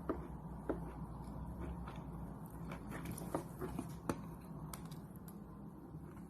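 Chalk being chewed: sharp, irregular crunches, roughly two a second, thinning out near the end, over a low steady hum.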